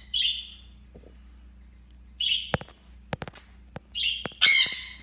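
Pet parrot giving short harsh squawks, then a loud rasping screech near the end, with a few sharp clicks or taps in between.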